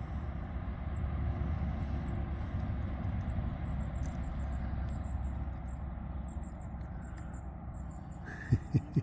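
A steady low rumble with faint, irregular high chirps of small birds over it, and three quick low thumps near the end.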